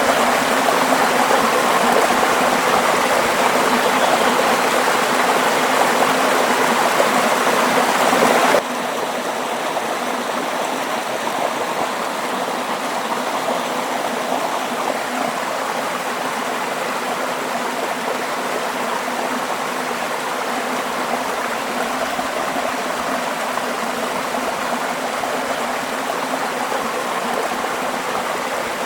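Flowing water, a steady rush like a stream or small falls. About eight and a half seconds in it cuts suddenly to a slightly quieter, softer rush.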